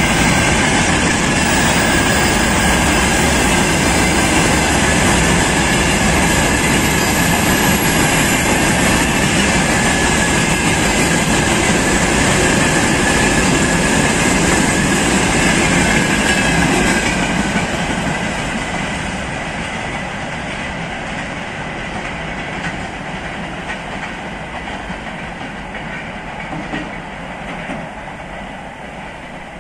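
Freight train rolling past on the rails, its wheels clicking over the rail joints. It is loud and steady, then fades gradually from a little past halfway as the train moves off.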